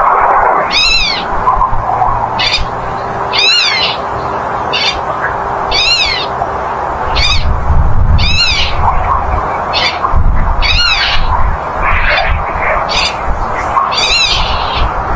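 Black-tailed godwits calling: repeated high calls, each rising and falling in pitch, about one every second or so, mixed with shorter sharp notes, over a steady low rumble.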